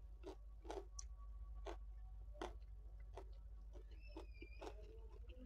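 Faint, irregular wet mouth clicks of chewing a mouthful of rice and raw vegetables with the mouth closed, a click every half second to second.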